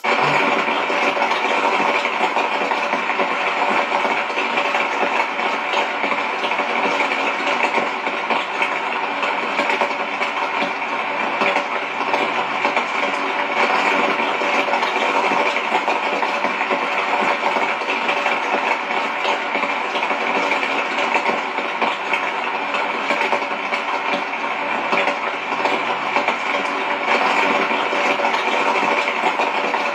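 Steady rain noise, unbroken and even throughout.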